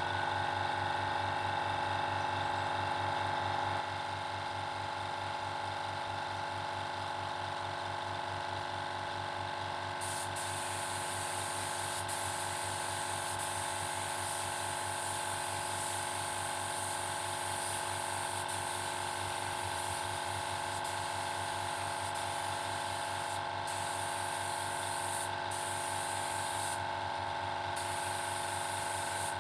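Paint spray gun and its air supply running while a finishing coat is sprayed: a steady hum with a fast low pulse, and a hiss of spray from about ten seconds in that breaks off briefly a few times near the end.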